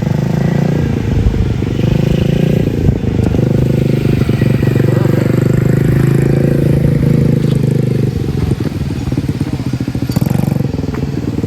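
Mini bike's small engine running as it is ridden, its pitch rising and falling with the throttle.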